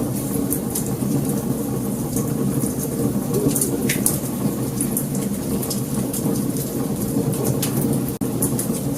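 Wood fire crackling, with frequent sharp pops over a steady low rush of the flames. The sound cuts out for an instant about eight seconds in.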